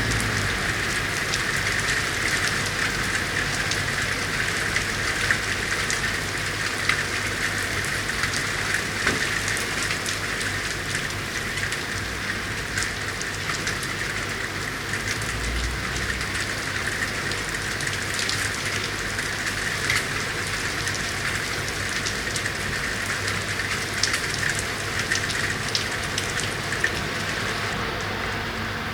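Steady rain falling in a city street, a continuous hiss with many individual drops ticking sharply throughout, over a faint low steady hum.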